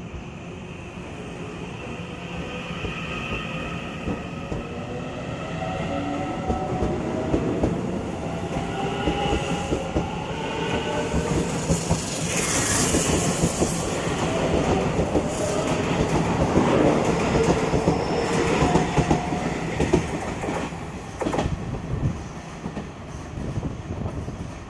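Taiwan Railways electric multiple unit accelerating away from a station: the IGBT inverter drive whines in several rising tones while the wheels clack over rail joints faster and faster. A harsh hiss joins partway through. The uploader hears an abnormal noise from one pantograph and suspects an out-of-round wheel.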